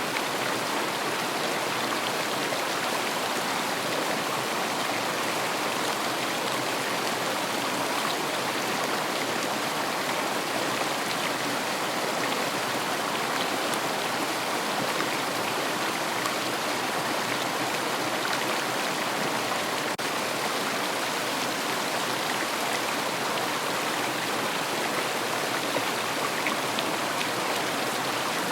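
River water flowing over stones in a steady, unbroken rush with no breaks or changes.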